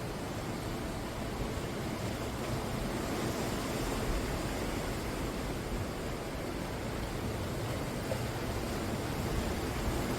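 Sea waves breaking and washing on the shore: a continuous rushing surf that swells a little now and then.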